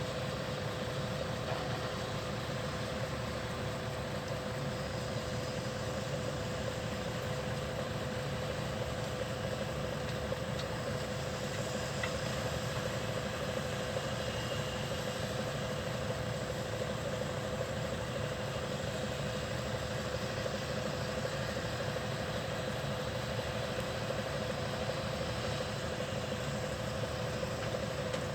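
Volvo A25E articulated dump truck's diesel engine idling steadily, with a constant whine-like tone over the rumble.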